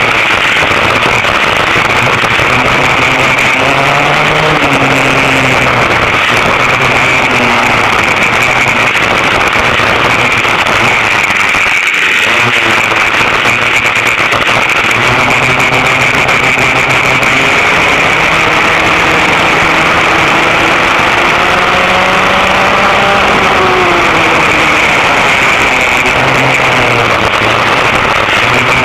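Vintage dual-engine racing kart running hard on track, its two rear-mounted two-stroke engines screaming together, the pitch climbing and falling repeatedly with the throttle and dropping briefly about halfway through.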